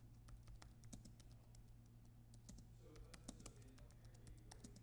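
Faint typing on a computer keyboard: quick, irregular key clicks, over a steady low hum.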